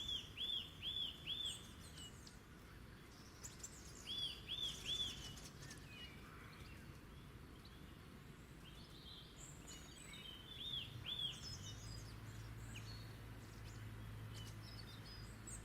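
Wild birds singing: one bird gives a quick run of three or four arched notes three times, with fainter, thinner high chirps from other birds between. About twelve seconds in, a steady low hum comes in under the birdsong.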